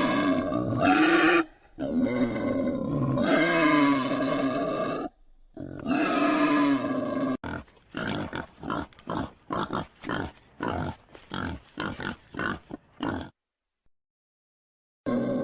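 A large animal calling: three long, pitched, drawn-out calls, then a quick run of short grunts about three a second. The sound cuts to dead silence for about two seconds, and another long call starts near the end.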